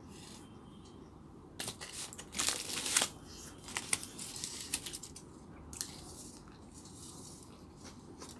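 Close-up crackling and crinkling as a crunchy fried chicken burger is handled and eaten. A dense cluster of crackles comes from about one and a half to three seconds in, then scattered smaller clicks.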